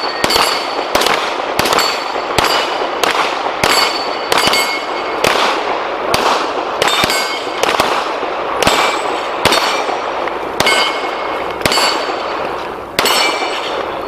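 Rapid pistol fire from two shooters, a shot about every half to two-thirds of a second, with steel target plates ringing after many of the hits.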